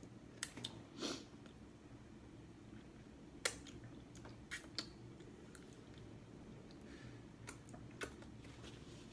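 A person chewing a mouthful of pizza, making soft, sparse mouth clicks and lip smacks. The loudest click comes about three and a half seconds in.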